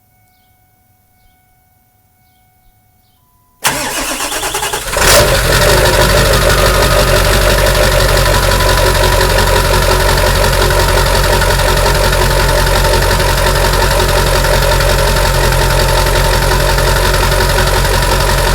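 7.3L V8 diesel engine cold-started after sitting eight hours: the starter cranks for about a second and a half from three and a half seconds in, the engine catches around five seconds in, and it settles into a steady idle. The owner suspects bad injectors, since it smokes white until warmed up.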